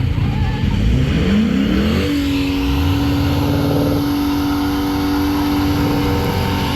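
Car engine revving: the pitch climbs quickly for about a second, then holds steady at high revs for about four seconds before letting off near the end.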